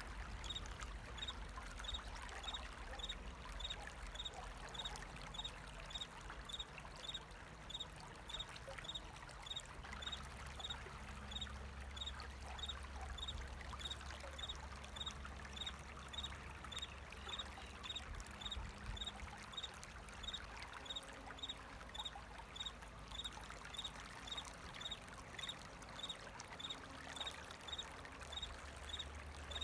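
Water running and trickling steadily, with a cricket chirping at an even pace, a little under two chirps a second.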